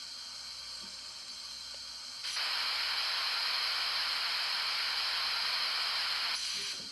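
Steam safety-valve sound effect from the ESU LokSound V4.0 Select decoder in an HO scale Bachmann Spectrum three-truck Shay, played through the model's onboard speaker. A loud, steady hiss of steam blowing off starts about two seconds in and cuts off sharply about four seconds later.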